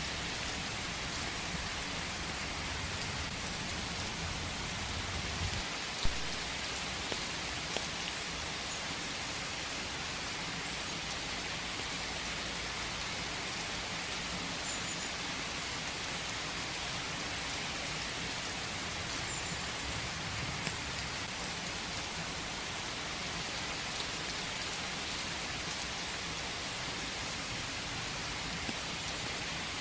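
Steady rain falling, a constant hiss with scattered louder drops; one sharp drop hit stands out about six seconds in.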